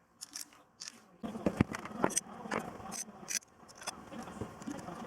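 Sharp clicks and light scraping of small hard objects being handled, with a louder, rougher background coming in about a second in.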